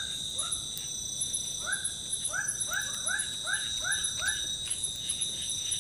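A series of short, repeated animal calls, each rising then levelling off, coming about three a second in a run through the middle. Underneath, forest insects drone in steady high tones.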